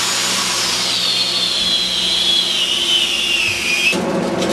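Cleaning machine running with a steady hiss and hum, and a high whine that slowly falls in pitch. It cuts off abruptly about four seconds in, giving way to rubbing and clicking.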